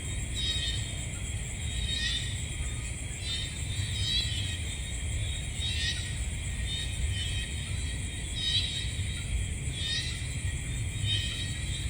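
Night chorus of insects: a constant high-pitched trill with rising and falling pulses of chirping calls every couple of seconds, over a low steady rumble.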